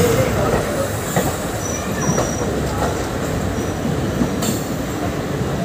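Close-range rumble and rattle of two passenger trains passing each other on adjacent tracks, with brief high wheel squeals about two seconds in and a single sharp clack near the end.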